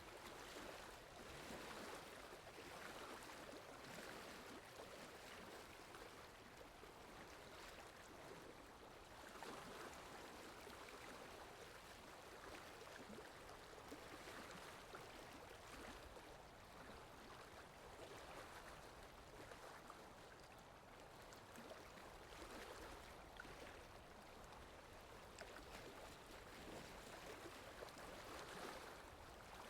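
Faint steady rain: an even hiss that swells gently every few seconds.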